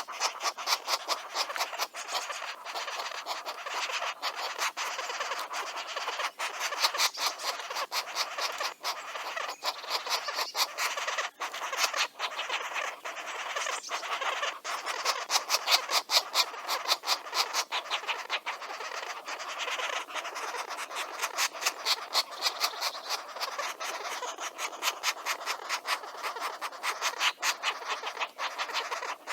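Green woodpecker nestlings begging: a continuous fast, pulsing rasping chatter that swells and eases in waves.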